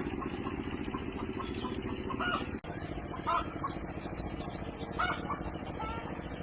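Farm poultry making short, repeated calls over a steady low rumble.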